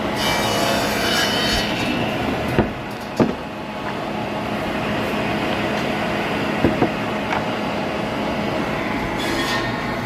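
Sawmill machinery running steadily, with a high screech in the first second or so and again near the end, and a few sharp knocks of wood in between.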